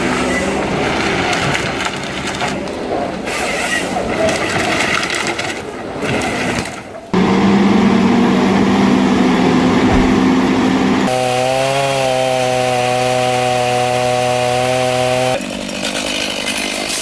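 Chainsaw and engine-driven tree-cutting machinery working wood, in several clips joined with sudden cuts about seven, eleven and fifteen seconds in. The middle two stretches hold a steady engine note, the first rising slightly in pitch.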